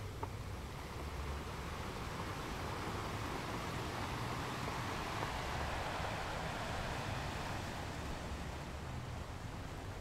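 Surf washing onto the beach, a steady hiss that swells for a few seconds midway and then eases, over a low wind rumble on the microphone.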